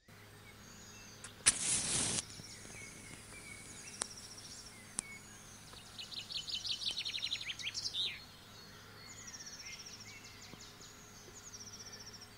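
Songbirds singing outdoors, with several rapid trilled phrases, the busiest a little past the middle. About a second and a half in, a loud, short rushing burst of noise lasts under a second.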